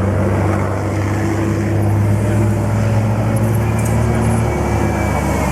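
Diesel engine of a JCB 205T tracked skid steer loader running steadily under load, its low drone shifting slightly about three and a half seconds in.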